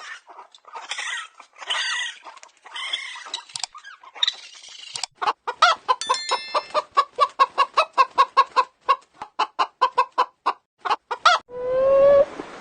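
Chickens clucking: a few separate calls at first, then a fast run of short, even clucks several a second from about five seconds in. A different, smoother animal call begins shortly before the end.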